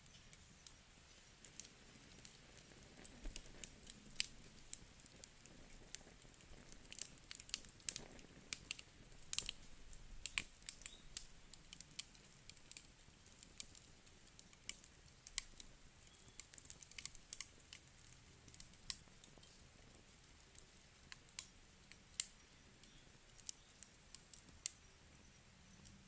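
Burning wood crackling in a fireplace: irregular small, sharp snaps and pops over a faint steady hiss.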